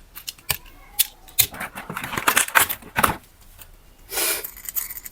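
Handling noise from unboxing: a run of sharp clicks with bursts of crinkly rustling, densest about two seconds in, and a short crinkle near the end.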